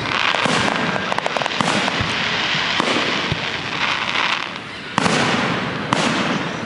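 Fireworks display: a string of sharp bursts, one every second or so, over a continuous crackling hiss, with a quick run of small crackles about a second in.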